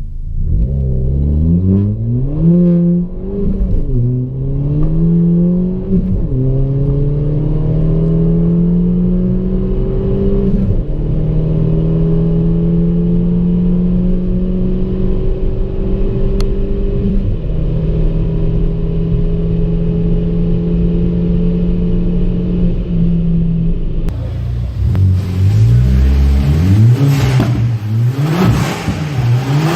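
Ford Fiesta ST MK7's 1.6-litre turbocharged four-cylinder EcoBoost engine and exhaust accelerating through the gears, the pitch climbing and dropping at each upshift, then holding a steady pitch for a long stretch. From about 24 seconds in the revs rise and fall quickly in short bursts.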